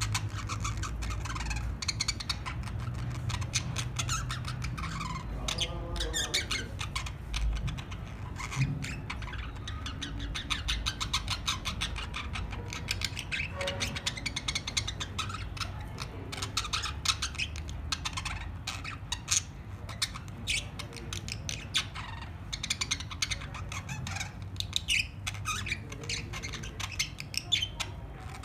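Budgerigars chattering: a dense, unbroken stream of rapid chirps, clicks and squawks, over a low background hum.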